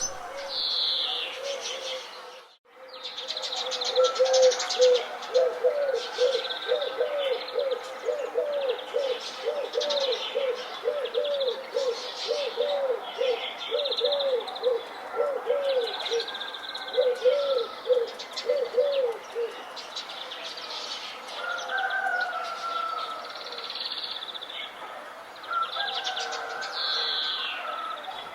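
Several birds singing together, with high chirps and trills throughout. From about four seconds in to about twenty, a low note is repeated about twice a second. The sound drops out briefly about two and a half seconds in.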